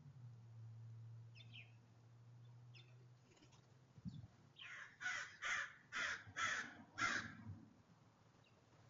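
Crow cawing: a quick run of about six harsh caws over two and a half seconds, starting about halfway through.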